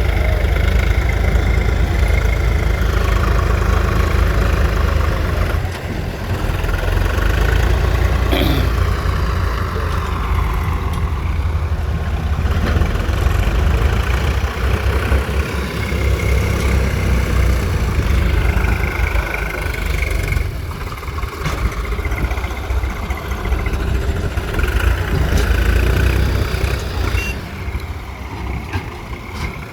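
Diesel engines of tractors and a JCB backhoe loader running steadily with a deep, continuous rumble.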